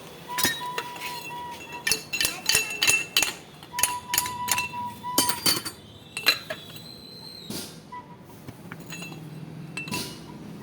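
Metal tools and shock absorber parts clinking and knocking together, a quick irregular series of sharp, ringing metallic taps that thins out after about halfway.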